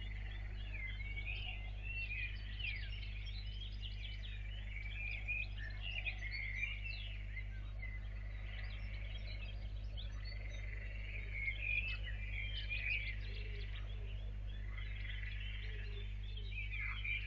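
Many small birds chirping and singing together in quick, overlapping notes, over a steady low hum.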